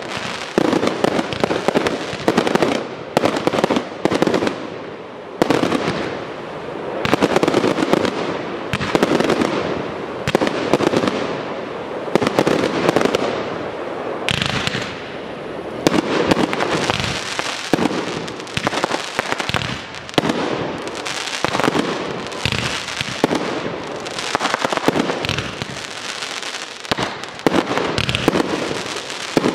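Fireworks display firing in dense, rapid volleys: one bang after another, with hardly a pause between them.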